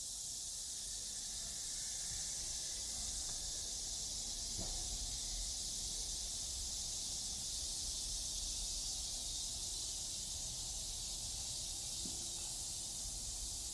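A steady, high-pitched hiss of cicadas chorusing, with a low rumble underneath.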